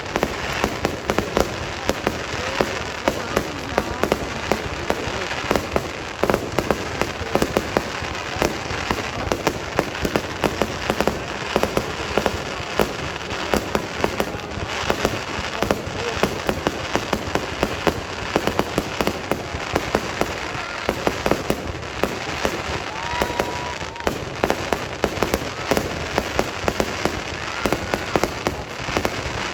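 Fireworks display at full barrage: a dense, unbroken string of sharp bangs and crackling reports, several a second, over a steady rumble of overlapping explosions.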